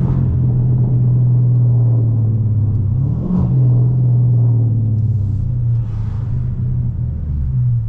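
Dodge Charger Scat Pack's 392 V8 running through catless mid-pipes and a race exhaust while driving, a steady low drone. About three seconds in it rises briefly in pitch, then settles back.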